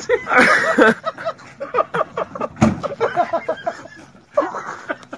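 Excited human voices calling out in short phrases, with one sharp knock about halfway through.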